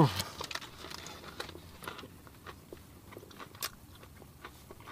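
A person chewing a big mouthful of a KFC Zinger Stacker fried-chicken burger, with soft irregular crunching and wet mouth clicks. One sharper click comes a little over three and a half seconds in.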